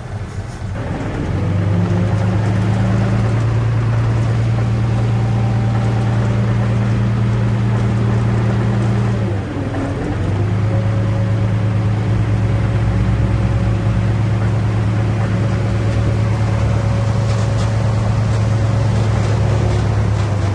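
Heavy diesel engine of earthmoving machinery running hard under load, with a steady low drone. It picks up about a second in, drops briefly about halfway, then pulls steadily again.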